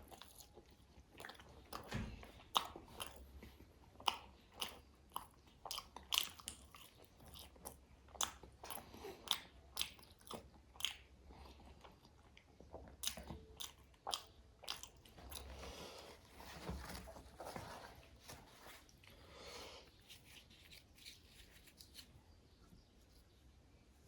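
Close-miked eating: a person biting and chewing crunchy food, with many sharp crunches. Around the middle the crunches give way to softer, wetter chewing, and it grows quieter near the end.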